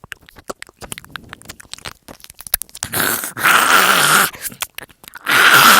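Improvised "cleaning noises" sound effect: a run of small crackles and rustles, then two louder, longer scratchy hissing bursts, like scrubbing or sweeping.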